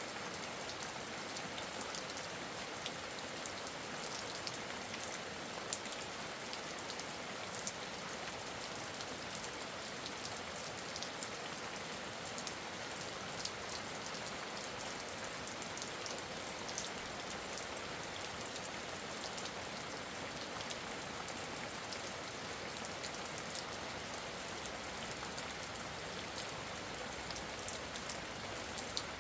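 Steady rain falling, an even hiss with individual drops ticking at irregular moments.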